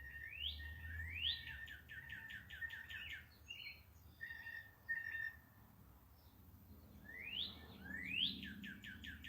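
A songbird singing the same phrase twice, the second time starting about seven seconds in. Each phrase is a pair of rising whistles followed by a quick run of about ten falling notes. Short, steady whistled notes come in the gap between the phrases.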